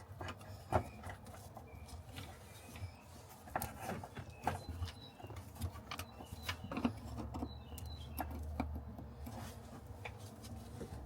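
Scattered light clicks and knocks, irregularly spaced, over a low steady hum, with a few faint short high chirps.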